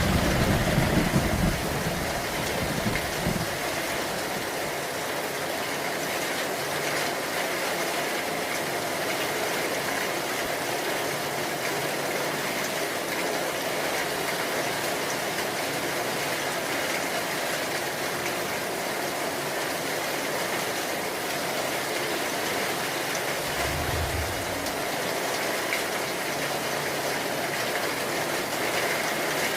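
Steady rain falling. A low rumble of thunder fades out over the first three seconds, and a short low rumble comes about 24 seconds in.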